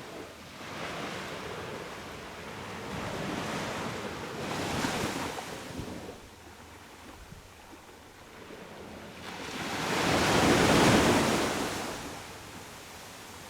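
Sea waves breaking on a beach: several smaller washes of surf in the first half, then a bigger wave crashing and rushing in, peaking about eleven seconds in before falling away.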